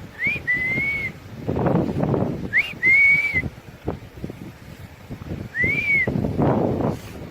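Three clear whistled notes a couple of seconds apart, each sliding quickly up and then holding or arching. Low rumbling noise swells between them.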